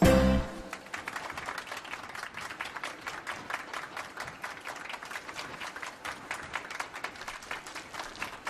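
A single low thump, then steady applause from a crowd clapping.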